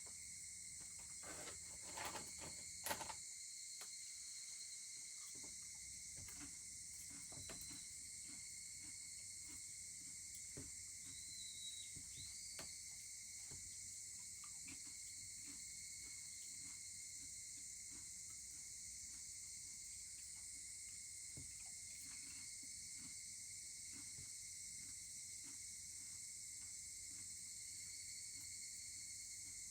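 Wood fire crackling with frequent small pops and a few louder snaps about two seconds in, over a steady, faint chorus of insects.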